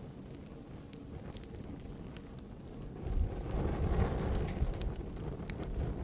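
Wood fire in a fireplace crackling, with scattered sharp pops over a low rushing bed. About halfway through, the rush swells louder and then eases near the end.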